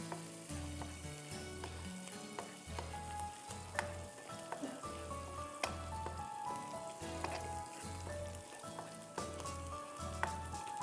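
Crushed garlic sizzling in hot oil in a wok, stirred with a spatula that clicks against the pan now and then. Background music with a repeating bass line plays under it.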